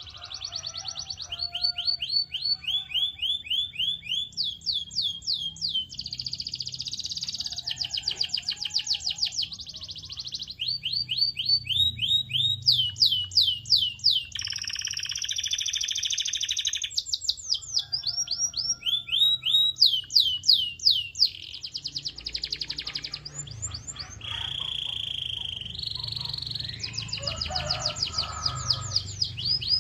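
Domestic canary singing a long, continuous song of rapid trills. Each trill is a quick run of repeated falling notes, and the bird switches to a new pitch and speed every second or two, with short stretches of buzzy rolled notes in between.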